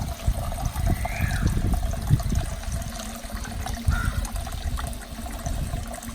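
Water trickling and splashing steadily down the tiers of a small homemade cement garden fountain, circulated by a motor pump.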